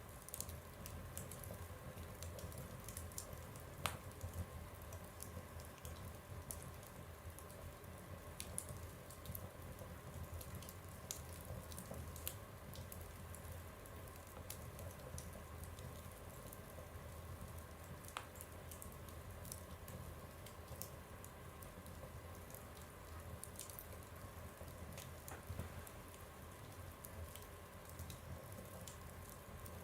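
Fire burning in a stove, crackling with small scattered pops over a low steady rumble, with a sharper pop about four seconds in and another around eighteen seconds.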